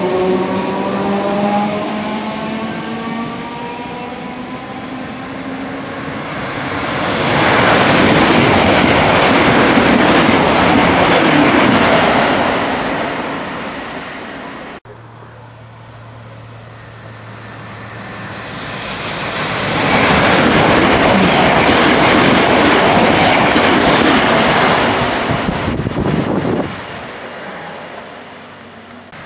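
Trains rushing through a station at speed: two long swells of wheel and air noise, each lasting several seconds, the second cutting off sharply near the end. At the start an electric train's motor whine falls in pitch.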